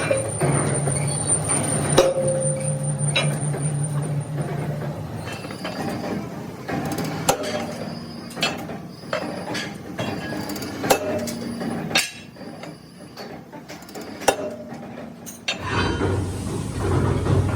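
Metal clinking and knocking as steel rim parts are handled and struck, irregular sharp strikes spread over the middle of the clip. A low steady machine hum runs under the first few seconds.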